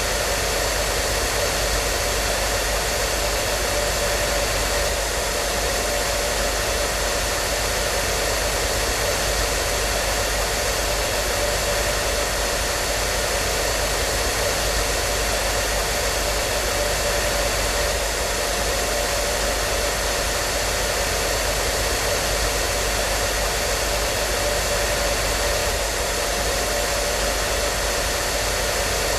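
Hair dryer running steadily at one setting: an even rush of blown air with a constant motor whine, unchanging throughout.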